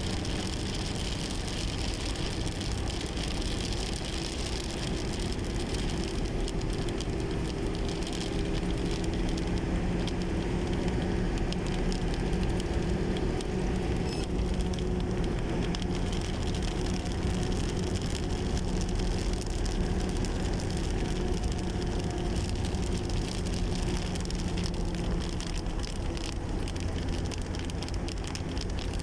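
A steady engine hum under a continuous rushing noise, with a low drone that holds its pitch through most of the stretch.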